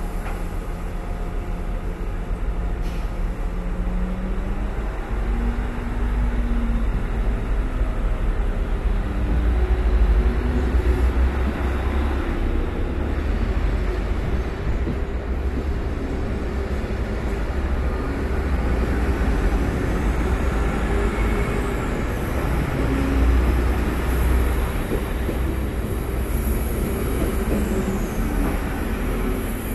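Passenger train pulling out of a station platform and running past close by: a steady low rumble of wheels on rails, with a whine that rises in pitch a few seconds in as the train gets going.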